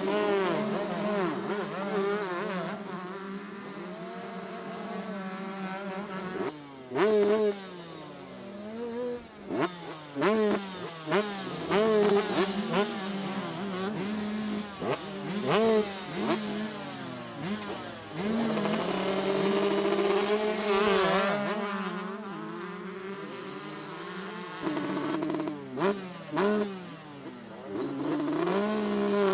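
Several 125cc two-stroke motocross bikes racing, engines revving hard and dropping off again and again as the riders work the throttle and shift through the gears. A steady engine drone runs underneath.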